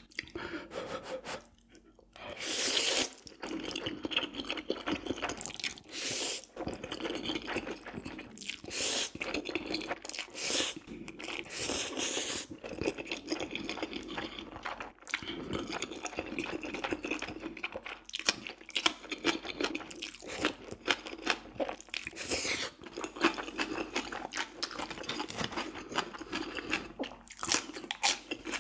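Close-miked chewing and crunching of food, a dense run of small wet clicks, with a few louder bursts, the biggest about three seconds in.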